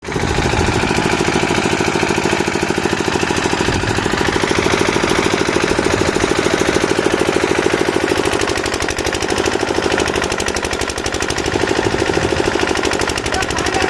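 Power hammering tool running steadily with a rapid, even rattle of blows, typical of an electric breaker or hammer drill working concrete.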